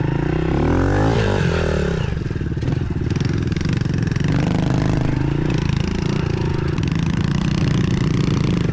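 Pit bike engines running, with the revs rising and falling about a second in, then running more steadily at part throttle.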